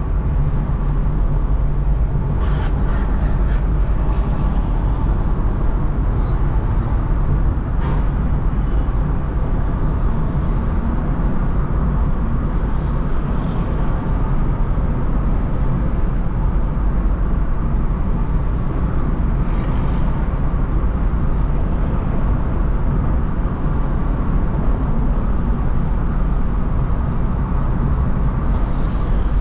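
Steady road and traffic noise from a car driving through city streets, dominated by a low rumble, with a few faint brief knocks or rattles.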